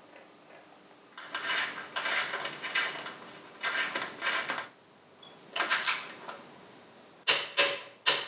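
Several short bursts of metallic rattling and clinking from hand tools working paddock-stand bobbins into a motorcycle swinging arm. The bursts are each under a second long, with brief pauses between them.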